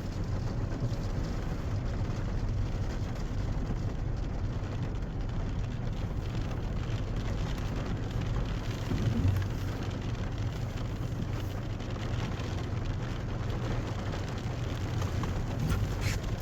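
Steady hum of a car driving, heard from inside the cabin, with rain falling on the car.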